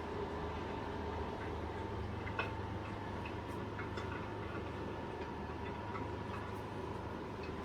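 Electric fireplace insert's built-in fire-crackling sound effect: scattered small irregular pops and clicks over a steady background hum, with one louder crack about two and a half seconds in.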